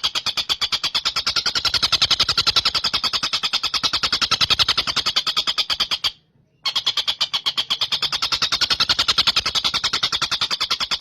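Tengkek buto, a large kingfisher, calling in a fast rattling trill of about ten notes a second. The trill breaks off for half a second about six seconds in, then starts again.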